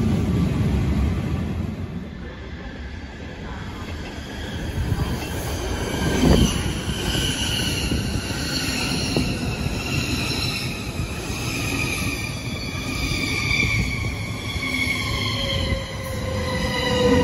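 Swiss intercity train of coaches with an SBB Re 460 electric locomotive rolling past along the platform. Several high whining tones sound over the rumble of the wheels and slowly fall in pitch through the second half, and there is a single knock about six seconds in.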